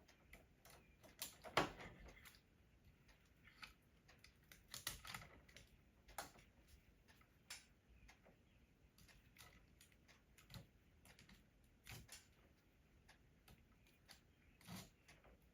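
Faint, irregular clicks and taps of hardware being handled and fitted by hand, loudest about one and a half seconds in, with near silence between them.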